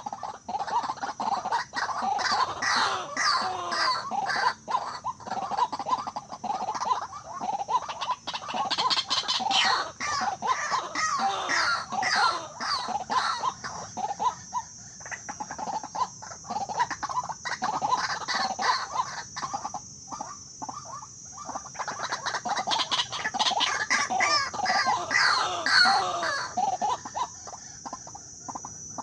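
White-breasted waterhens (ruak-ruak) calling, a dense run of repeated croaking calls that thins out in the middle and trails off near the end, over a steady high-pitched tone.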